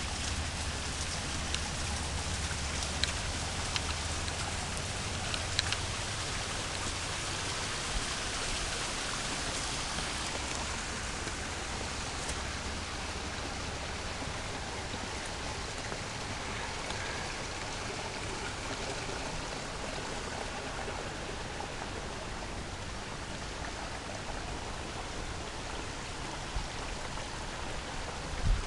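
Steady hiss of water, with scattered light taps over roughly the first ten seconds.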